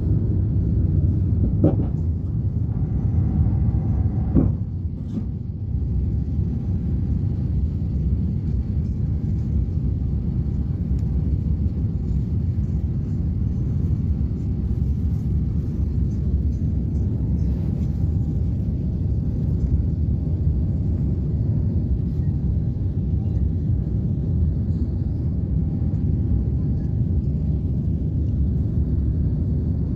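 Steady low rumble inside an airliner cabin during takeoff, the engines and airframe running together, with two brief knocks in the first five seconds.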